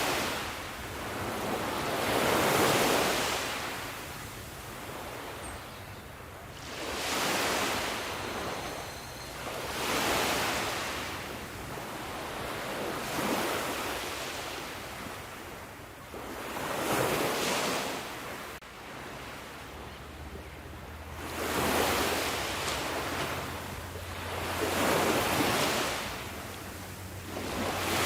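Sea waves breaking and washing on a shore, one swell about every three seconds, each rising and falling away in a wash of surf noise.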